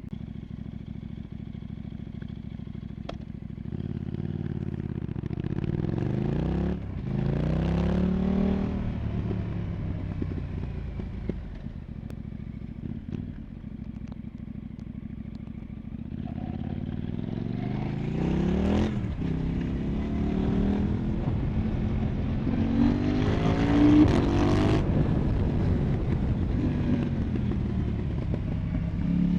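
KTM 990 Duke's parallel-twin engine through an Arrow Pro Race exhaust, under way. It runs steadily at low revs, then accelerates several times with rising pitch, the note dipping briefly between pulls like gear changes. It is loudest about 24 seconds in.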